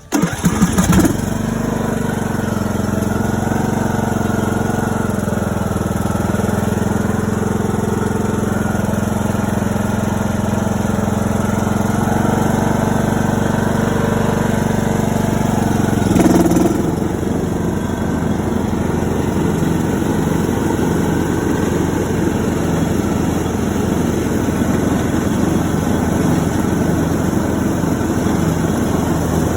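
John Deere E110 lawn tractor's 19-horsepower, 540cc single-cylinder engine starting up and running steadily. About sixteen seconds in there is a brief surge and the note changes, running less evenly afterwards.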